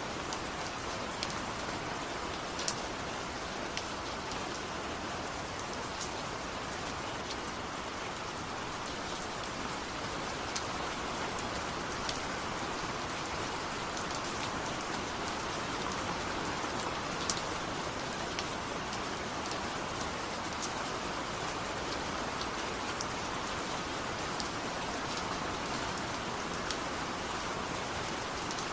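Steady rain falling, with scattered sharper drips of individual raindrops.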